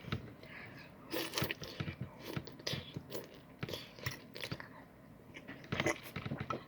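A person chewing food with the mouth open: irregular wet, crunchy chewing and smacking sounds close to the microphone.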